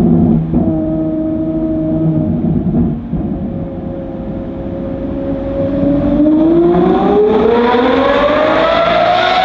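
Ferrari 812 GTS's V12 engine through a Novitec Inconel exhaust, holding steady revs, then easing off about three seconds in. In the last few seconds it accelerates hard, its pitch climbing steadily.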